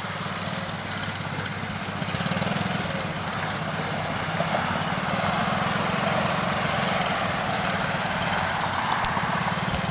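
Small single-cylinder engine of a child's motorcycle running steadily as he rides, a little louder from about two seconds in.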